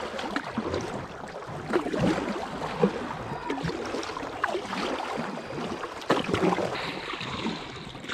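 Kayak paddle strokes splashing and knocking against moving river water, with the steady rush of current around the hull as the kayak is worked upstream.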